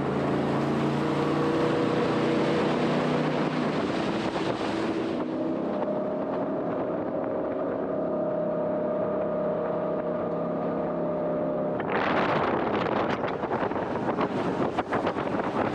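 Jet boat's engine running with a steady hum. About twelve seconds in, wind starts buffeting the microphone as the boat picks up speed.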